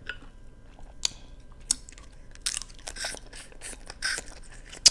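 A person eating snow crab meat: chewing and wet mouth smacks, with a few sharp clicks.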